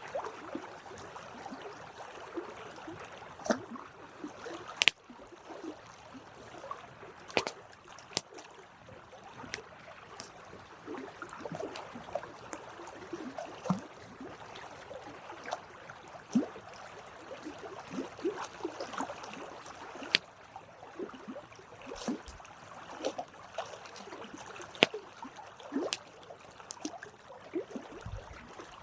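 Wood campfire burning: a steady crackle of frequent sharp pops and snaps, with small hissing squeaks from the burning wood and a few louder cracks, the loudest about five seconds in and near twenty seconds in.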